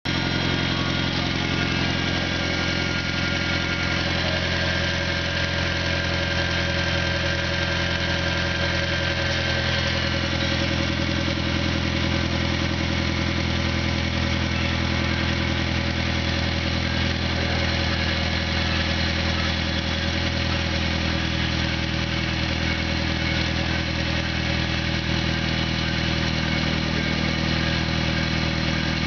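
1998 Honda Civic four-cylinder engine idling steadily in the car, test-run as a used engine.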